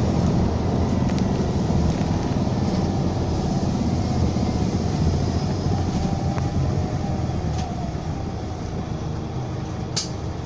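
Scania K320 coach's 9.3-litre five-cylinder DC9 diesel engine running with a steady low rumble, easing off slightly in the last couple of seconds. A few light rattling clicks, with one sharper click near the end.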